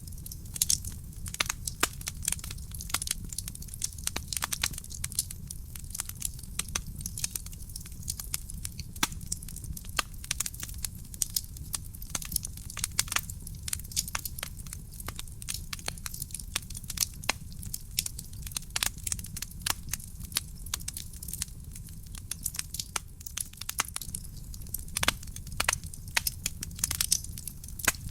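Wood fire burning in a fireplace: a steady low rumble of the flames under constant crackling, with frequent sharp pops and snaps from the burning wood.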